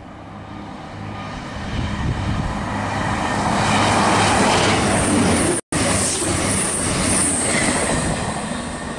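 Voyager diesel multiple unit passing through at speed, with its engines humming under the rumble of wheels on the rails. The sound grows to a peak about four to five seconds in and then fades as the train goes away, with a break of an instant just after the peak.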